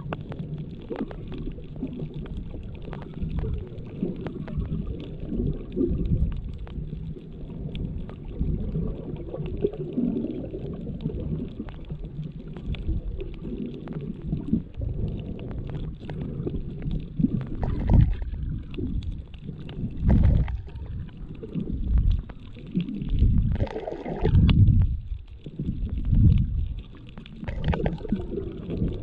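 Underwater sound through a GoPro Hero7's built-in microphone, used without a case: a muffled, low rumble of moving water with faint scattered clicks. In the second half it swells into louder surges about every two seconds.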